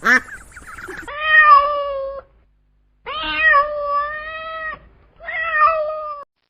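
Domestic cat meowing: three long, drawn-out meows, the middle one the longest.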